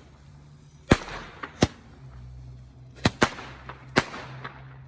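Fireworks going off: a string of about six sharp bangs at uneven spacing, roughly one a second, some in quick pairs.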